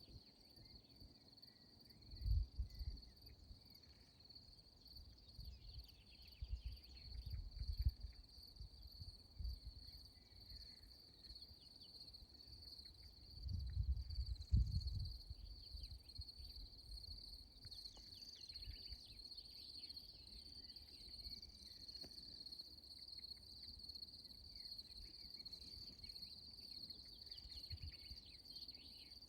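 Insects chirping in a steady, high, unbroken trill, with scattered short chirps over it. Low rumbles swell and fade about 2 seconds in, around 7 seconds in, and more strongly around 14 seconds in.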